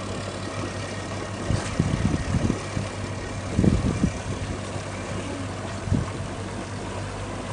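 Boat engine running steadily at low revs, with a few short low thumps over the hum.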